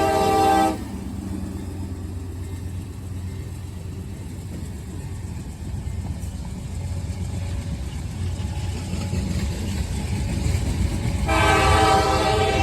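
A GE AC4400CW diesel locomotive's air horn sounds a chord that cuts off under a second in. The locomotive then runs with a low, steady rumble, and the horn sounds again near the end.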